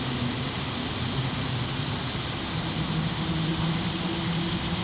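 Steady park ambience: a water fountain's constant splashing, with the hum of city traffic underneath that grows a little stronger about halfway through.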